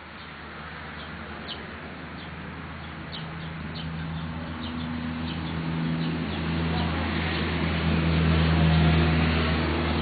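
Small birds chirping in short high notes, over a steady low hum that grows louder towards the end.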